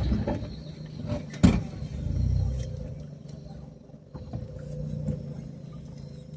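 A vehicle running at low speed over a rough road, with a sharp knock about one and a half seconds in and a few smaller clicks and rattles.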